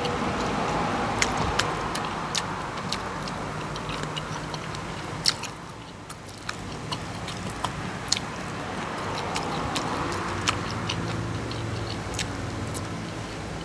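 A person chewing and biting food with wet mouth noises, with scattered sharp clicks at irregular moments, over a steady low hum.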